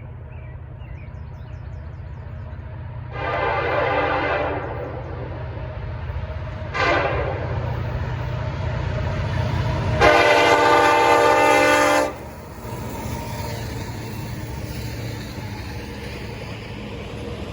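Train horn blowing three blasts, long, short, then a loud long one, each a chord of several pitches, over the steady low rumble of the passing train. The long-short-long pattern is the closing part of the standard signal sounded for a grade crossing.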